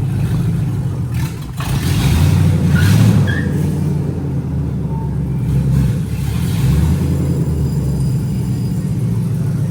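Car engine running and revving lightly as the lowered car is driven up onto a lift's ramps, getting louder about two to three seconds in.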